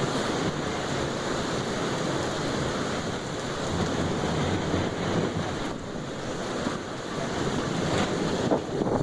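Storm wind buffeting the microphone over a steady rush of surf.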